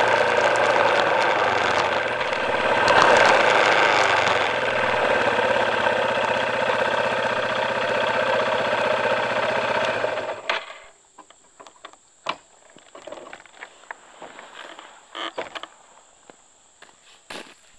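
A vehicle engine idling steadily, then switched off about ten seconds in. After that there are only scattered light clicks and a faint high steady tone.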